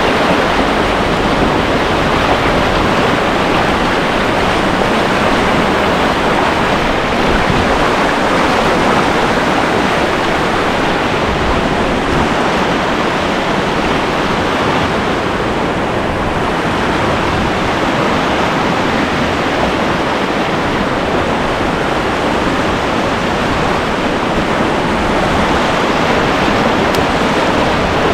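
Whitewater rapid rushing steadily: a loud, even wash of churning river water with no let-up.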